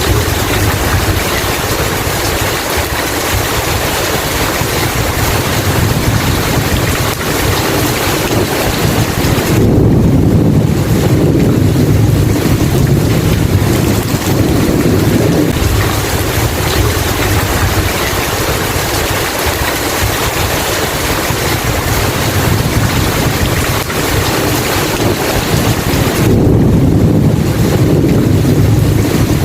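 Rain falling steadily, with low thunder rumbling that swells twice: about ten seconds in and again near the end.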